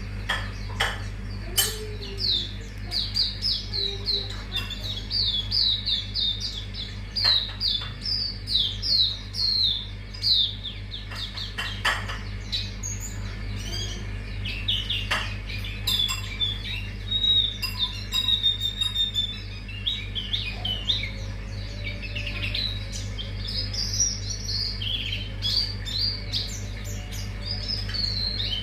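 Sundaland white-eye (Zosterops auriventer, 'pleci auriventer') singing a long, rapid run of high chirps and twittering notes, several a second, with louder bursts of song now and then. A steady low hum lies underneath.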